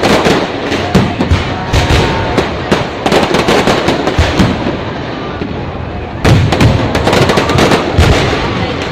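Aerial fireworks bursting: rapid bangs and crackling in a dense volley at the start, thinning out in the middle, then another sudden loud volley a little past six seconds in.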